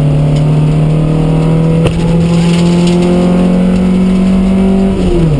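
Rally-prepared 1.4-litre four-cylinder petrol engine of a Mark 2 Vauxhall Astra pulling hard, heard from inside the cabin, its note climbing steadily; a single knock sounds about two seconds in. Near the end the engine note drops sharply at a gear change and carries on at a lower pitch.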